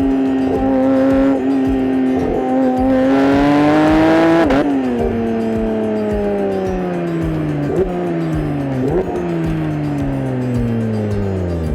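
Porsche 992.1 GT3's 4.0-litre flat-six engine and exhaust under a drive: the note holds steady, climbs for a second or two, drops sharply about four and a half seconds in as the throttle comes off, then winds down slowly with two short throttle blips.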